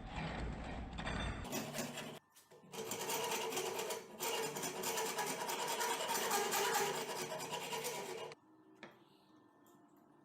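Small electric power tool running steadily, heard in short spliced clips with abrupt cuts. It stops suddenly near the end.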